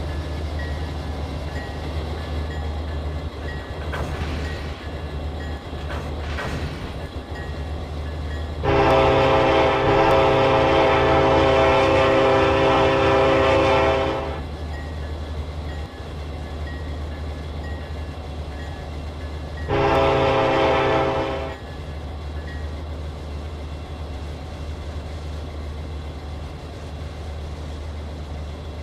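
Diesel freight locomotive running with a steady low drone, its air horn sounding one long blast of about five seconds, then a shorter blast of about two seconds.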